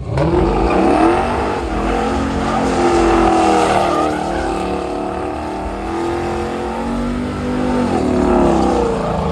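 A car engine revving loudly, its pitch rising and falling over and over, starting abruptly.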